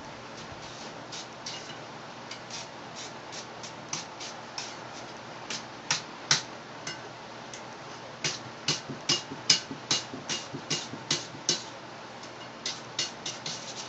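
Blacksmith's hammer striking hot steel on an anvil while forging a drive hook. The blows come unevenly in clusters, each with a short metallic ring, and the loudest fall around the middle of the stretch.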